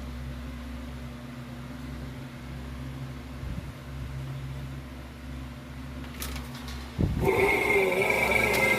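A low, steady machine hum; about seven seconds in, a much louder running sound with a high whine starts suddenly.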